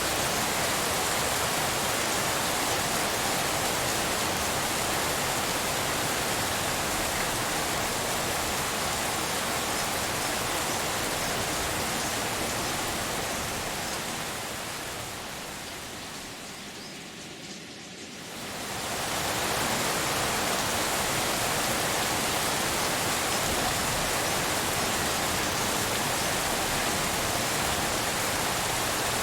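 Steady rain noise, an even pink-noise hiss. A few seconds past the middle it fades down gradually, then comes back up quickly.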